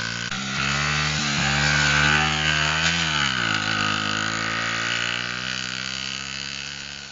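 Small pit bike engine running: it holds a steady pitch, revs up briefly about three seconds in, then drops back to a lower steady note while slowly fading.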